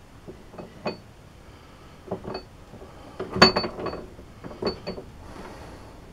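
Metal tools and parts clinking and knocking against each other as they are handled at a metal lathe, in four short clusters with a brief high ring on some strikes, the loudest about three and a half seconds in.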